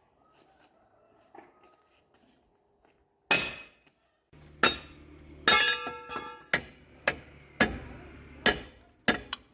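A hammer striking the steel of a bulldozer's track chain: about ten sharp, ringing metallic blows, roughly one a second, starting about a third of the way in. A low steady hum runs beneath the later blows.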